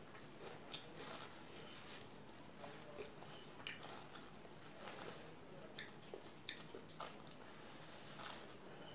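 Faint close-up chewing of an egg roll, with scattered small clicks and crackles, some from its thin wrapper being peeled back.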